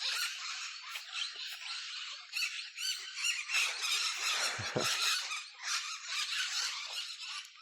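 Parrots calling, many overlapping squawks and chattering calls going on without a break.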